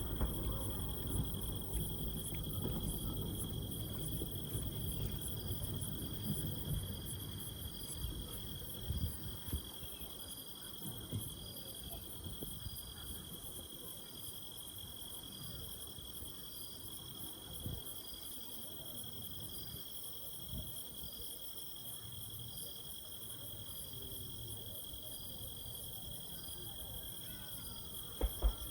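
Night insects trilling steadily at a few high pitches, one of them pulsing. A low rumble underneath dies away over the first several seconds, with a few soft low thumps later.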